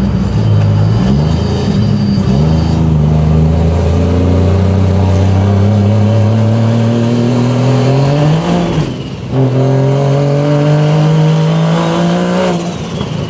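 Ford Barra inline-six engine of a drift ute accelerating through the gears, heard from inside the cabin: the revs climb steadily for about six seconds, drop sharply at a gearshift about nine seconds in, then climb again and drop at another shift near the end.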